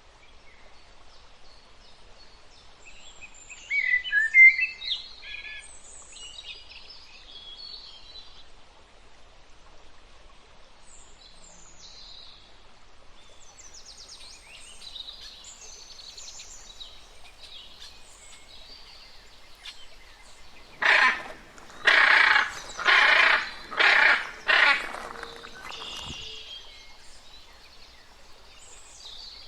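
Birds chirping and calling, with a loud flurry of chirps about four seconds in. About three-quarters of the way through comes a run of five loud, harsh squawks in quick succession.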